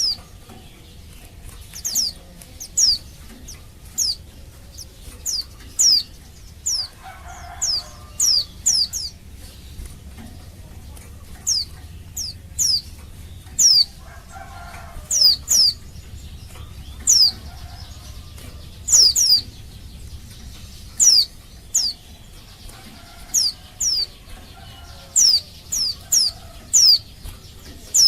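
Female white-eye (pleci) giving its call to males: short, high, sharply down-slurred notes, often in quick pairs, repeated every second or two. A few fainter, lower sounds show up now and then.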